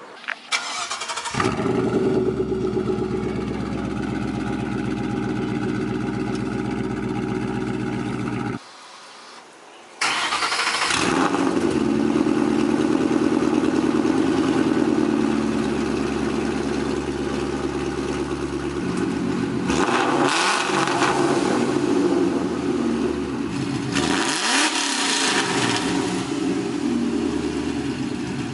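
Ford Mustang GT's 5.0 V8 running through its Borla mufflers: a steady idle, a sudden break, then running again with the revs swept up and down twice near the end.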